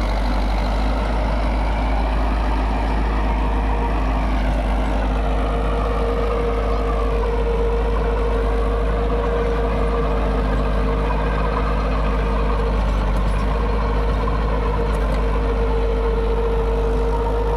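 Mahindra 475 DI tractor's diesel engine running steadily, with a steady whine that comes up about five seconds in.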